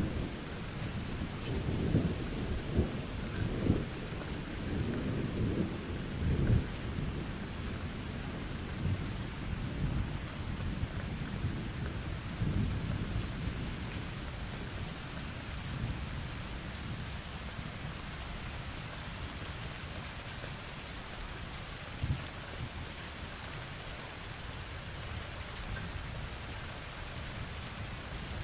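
Thunderstorm: steady rain falling, with thunder rumbling and cracking through the first several seconds, then rain alone with one short crack of thunder later on.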